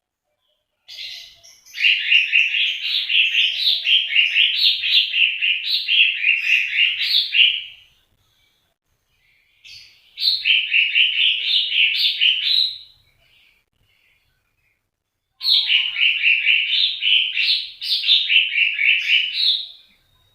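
A songbird singing three long phrases of rapid chirping notes, each several seconds long, with short pauses between them.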